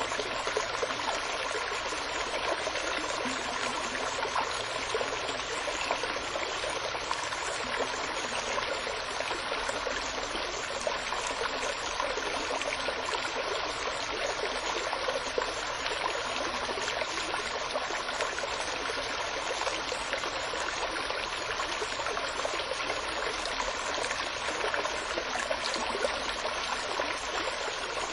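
Running water, a steady babbling stream or brook with fine trickling and splashing, unchanging throughout.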